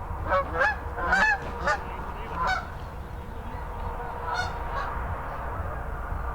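A flock of wild geese calling, many overlapping honks, dense at first and thinning out after about three seconds, over a steady low rumble.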